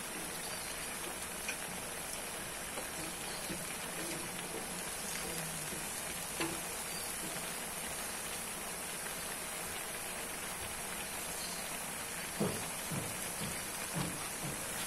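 Vegetables sizzling steadily in a hot aluminium wok on a gas stove, with a few light knocks near the end.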